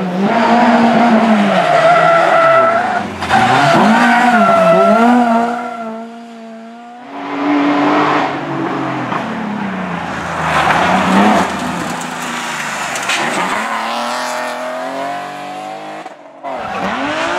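Rally cars driven hard on a sprint stage: engines revving up and dropping back through gear changes and braking, with tyre squeal. Several cars follow one another, the sound cutting abruptly from one car to the next about three, seven and sixteen seconds in.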